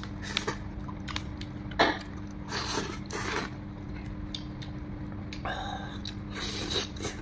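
Close-up eating sounds of a man chewing meat: wet chewing and lip-smacking in short irregular bursts, with small clicks. A steady low hum runs underneath.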